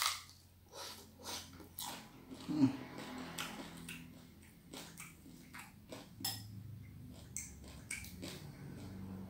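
Close-up eating sounds of a person biting and chewing crispy fried fish head: irregular crunches and wet mouth smacks, with a short hum about two and a half seconds in.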